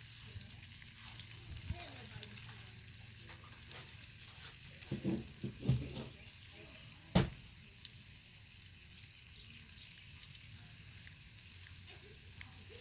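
Bacon frying over a crackling fire: a steady high sizzle with scattered small crackles and pops. Around five to six seconds in there is a short cluster of louder, lower sounds, and at about seven seconds a single sharp crack, the loudest moment.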